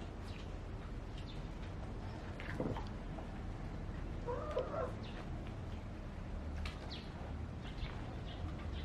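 A short animal call about halfway through, over a steady low hum and scattered faint clicks.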